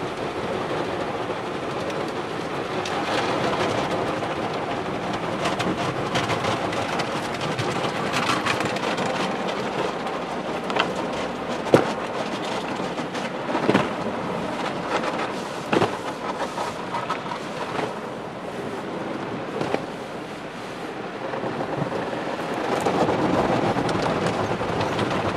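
Car wash water spraying over a car: a steady rushing hiss, with a few sharp knocks in the middle.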